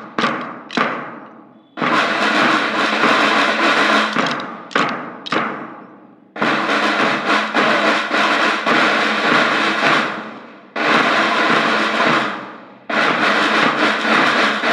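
School band percussion playing loudly: sustained drum rolls or crashes a few seconds long, each starting abruptly and fading away, with short single strikes between them.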